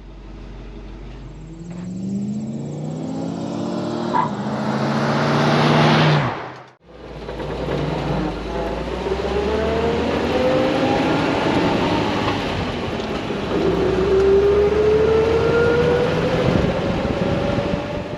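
1970 Toyota Land Cruiser's engine accelerating under way, its pitch rising for several seconds, breaking off briefly about six and a half seconds in, then rising slowly again.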